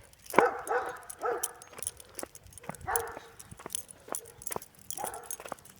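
A dog giving several short barks or yips, a second or two apart, over a steady run of light clicks.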